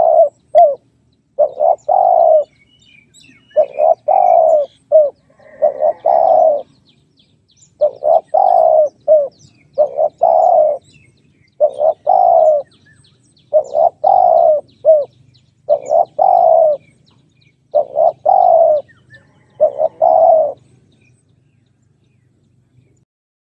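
Spotted dove cooing: short phrases of a few low notes, repeated about every two seconds, stopping near the end.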